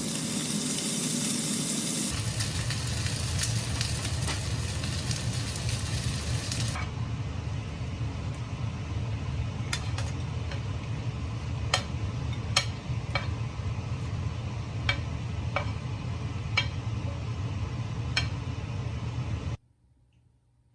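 Food sizzling in a frying pan while it is stirred, with sharp clicks of a utensil against the pan through the middle; the sound stops abruptly near the end.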